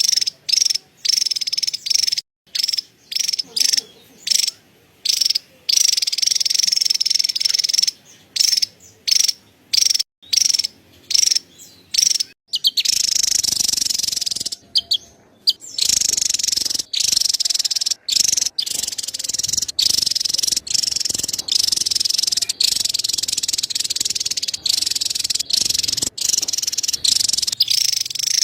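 Javan tesia giving its rapid, high-pitched chattering call. It comes in short bursts with brief breaks, then in longer, nearly unbroken runs from about halfway on.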